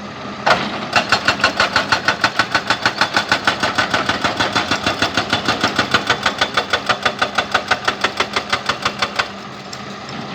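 Excavator-mounted hydraulic breaker hammering rock in a rapid, even series of blows, about six a second, starting about half a second in and stopping about a second before the end. The excavator's diesel engine runs underneath.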